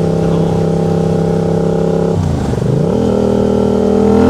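Motorcycle engine running at steady revs, then a gear change about two seconds in as the revs dip, after which the engine note rises steadily as the bike accelerates.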